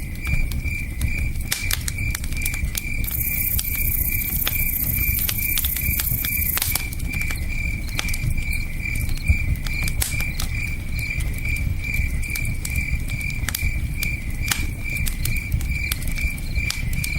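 Campfire crackling with frequent sharp pops over the low rush of a river, while crickets chirp steadily a few times a second. A high hiss rises for a few seconds about three seconds in.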